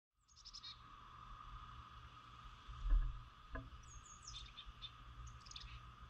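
Songbirds chirping in three short bursts of quick high notes, over a steady high hum and a low rumble, with a dull thump about three seconds in and a lighter one just after.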